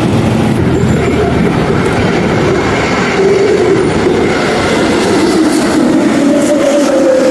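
Aircraft jet engines running loud and steady as a rough, even roar, with a tone in it that slowly rises in pitch over the last few seconds.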